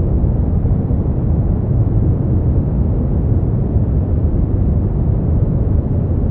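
Continuous generated sleep-aid noise, sold as white noise, steady and unchanging; deep and rumbling, with little hiss at the top.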